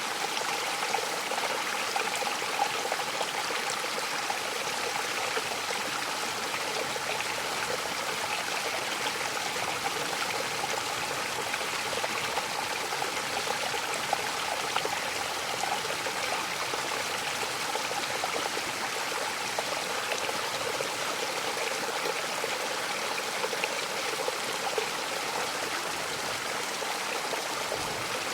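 Waterfall: water falling and splashing, a steady rushing hiss with small splashy spikes.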